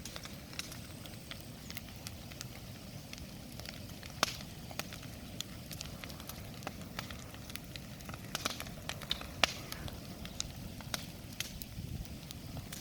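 Wood bonfire burning, crackling with irregular sharp pops and snaps over a low steady rumble of flames. The loudest pop comes about four seconds in, and a cluster of pops follows a few seconds later.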